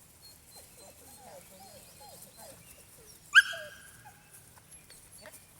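A dog whines faintly, then gives one loud, high-pitched bark about three seconds in.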